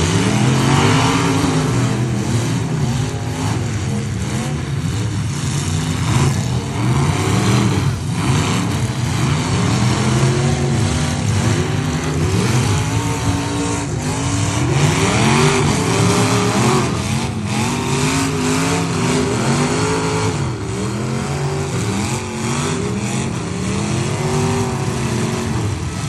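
Engines of several demolition derby trucks revving up and down over one another, again and again.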